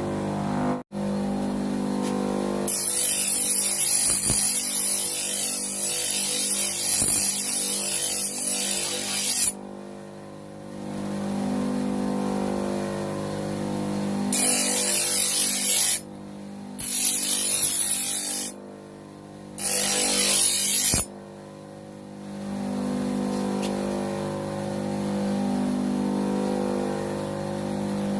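Homemade bench grinder's motor running with a steady hum, while a workpiece is pressed against the wheel in several stretches of harsh grinding hiss, the longest lasting about seven seconds.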